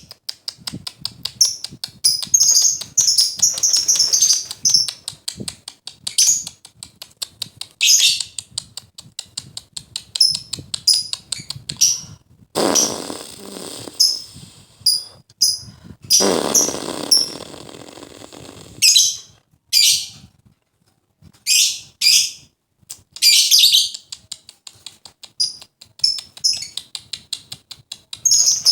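Lovebirds chirping shrilly and chattering in quick runs while they squabble, with two longer noisy bursts of wing flapping about halfway through.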